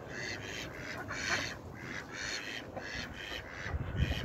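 Birds calling in a quick series of short, repeated calls, a few each second, with a few low thumps near the end.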